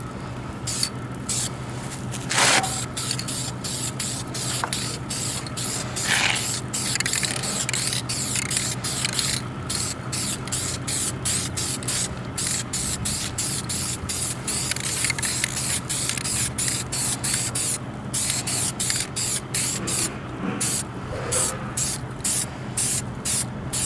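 Aerosol can of primer spraying in many short hissing bursts, about one or two a second, as a light coat goes onto an engine block. A couple of knocks come early on, and there is a steady low hum underneath.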